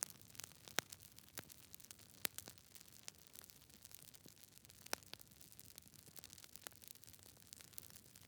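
Campfire crackling: irregular sharp pops and snaps of burning wood over a faint hiss, with a few louder snaps standing out.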